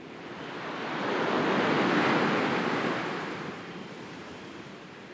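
Sea waves on a shore: one wave swells in about a second in, breaks and washes up around two seconds, then draws back and fades.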